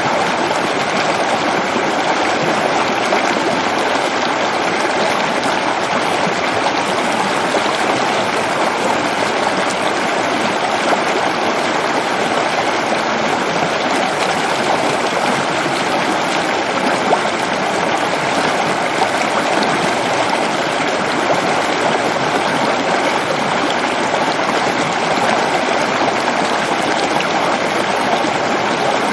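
Waterfall: falling water rushing steadily and loudly, with no changes or breaks.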